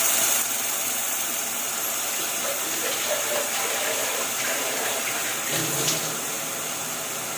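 Blended tomato sauce sizzling and hissing in hot oil just after being poured in over fried onion and garlic, the sizzle slowly dying down.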